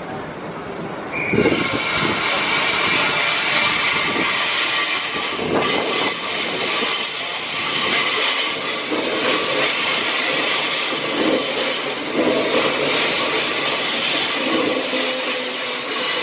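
Queensland Rail electric multiple-unit train pulling into the platform and running past close by. Its sound swells suddenly about a second and a half in to a loud, steady rush with a high-pitched squeal held over it.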